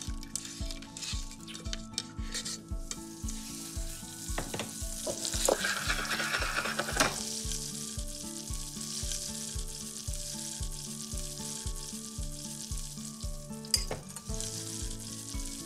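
Food sizzling in a hot frying pan, the sizzle swelling sharply about five seconds in and then holding steady, over background music with a steady beat.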